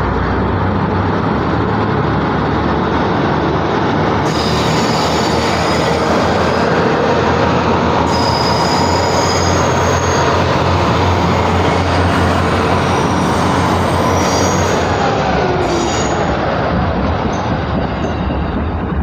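KiHa 200 and KiHa 220 series diesel railcars pulling away, their diesel engines giving a steady low drone, with the wheels squealing in thin high tones through the middle stretch.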